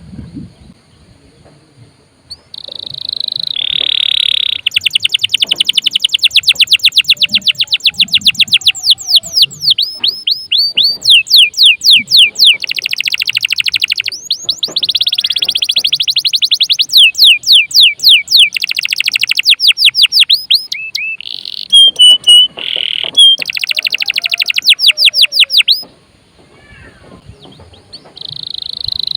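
Domestic canary singing in long, fast trills of rapidly repeated high notes, phrase after phrase, with a short pause about 26 seconds in before the song picks up again.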